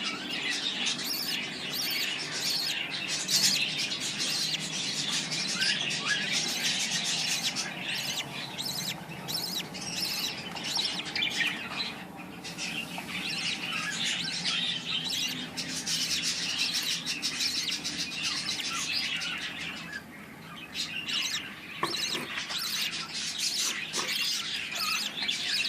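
Budgerigars chirping and chattering in a dense, continuous stream, with two brief lulls, one about halfway through and one near the end.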